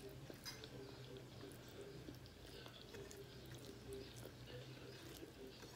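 Faint chewing of a person eating with her fingers: soft, scattered wet mouth clicks over a low steady hum.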